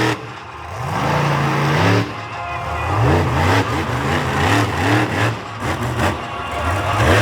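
Monster truck engine revving hard, the throttle blipped up and down over and over so the pitch rises and falls several times, with a sharp drop off the throttle just after the start.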